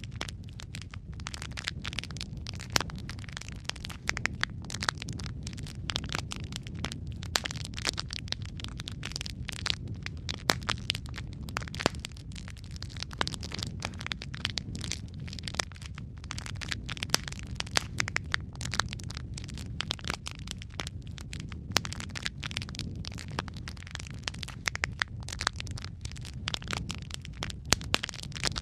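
Wood fire crackling: a dense, irregular run of sharp pops and snaps over a steady low rumble of burning.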